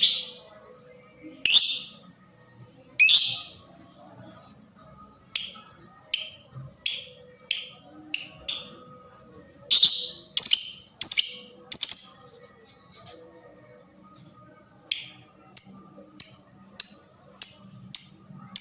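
Lovebird giving a series of sharp, shrill chirps, the loud aggressive calling of a 'fighter' bird. The chirps come in uneven groups, then in a quick, even run of about two or three a second near the end.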